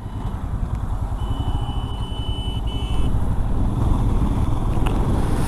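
Royal Enfield Himalayan single-cylinder engine running under way, a dense low rumble with fast, even pulsing, mixed with wind and road noise. A thin, steady high tone sounds for about two seconds in the first half.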